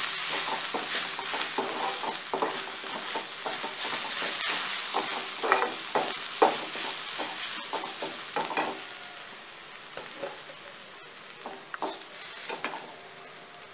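Onions and spice powders frying in oil in a non-stick kadai, sizzling while a slotted steel spatula stirs and scrapes them, with frequent clicks of the spatula against the pan. The sizzling drops off after about eight seconds, leaving fainter frying and occasional clicks.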